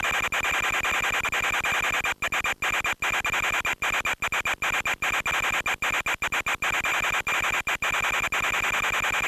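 Hiss and static from an FPV plane's radio video link, with a steady high tone running through it. Many brief dropouts cut the sound out for an instant, most thickly in the middle of the stretch.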